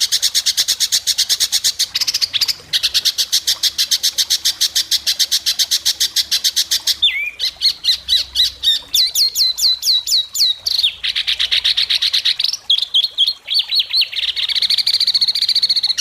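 White-rumped shama (murai batu) singing in sharp 'besetan' bursts: long runs of rapid, repeated high notes, broken in the middle by a string of quick downward-sliding whistles, then more fast phrases.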